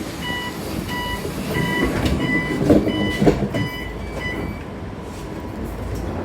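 An electronic beeper inside a bus beeps about twice a second for roughly four seconds, then stops, over the bus's steady low running rumble, with a few knocks near the middle.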